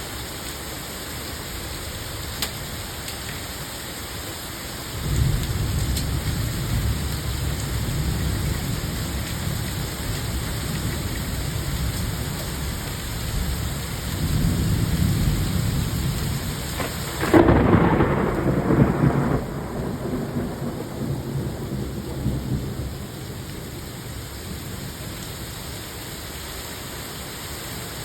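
Steady rain with a long roll of thunder. A low rumble sets in about five seconds in and swells, a louder crack comes about two-thirds of the way through, and the thunder then rolls away, leaving the rain.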